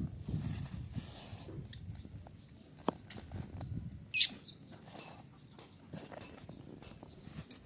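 A lovebird gives one short, shrill chirp about four seconds in. Before it come faint rustling and a sharp click.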